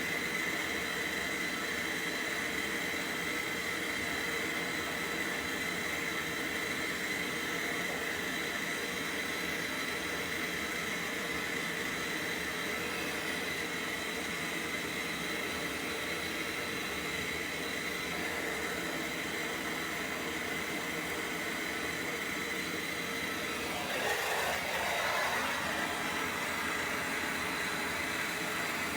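Gas brazing torch burning steadily on a refrigerator's copper tubing, a constant hiss with a thin whistling tone. About 24 seconds in it briefly gets louder and changes, then settles again.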